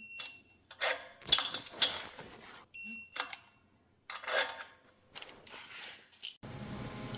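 Two short electronic beeps about three seconds apart, with bursts of metal clatter from engine parts being handled between and after them. A steady mechanical hum starts suddenly near the end.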